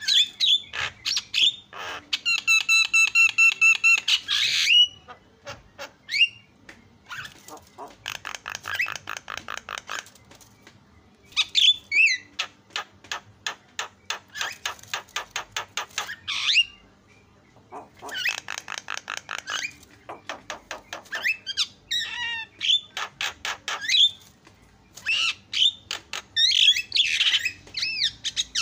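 Black-winged myna (jalak kebo) in full song: rapid runs of repeated chattering notes broken by short rising whistles and harsh squawks, in phrases with brief pauses between them. A loud, buzzy, held note comes about two seconds in.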